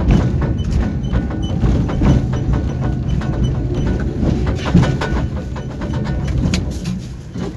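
A moving tram: a steady low rumble with a rapid, irregular clatter of knocks and rattles from the wheels on the track and the car body.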